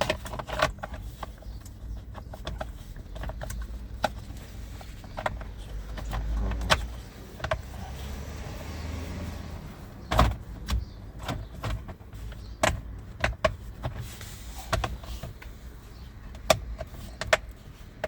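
Plastic steering column covers being handled and fitted, with scattered clicks and knocks of plastic parts, and a low rumble that swells for a few seconds midway.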